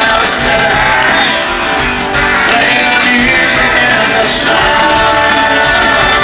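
Live country-rock band music with guitar and some singing, loud and steady.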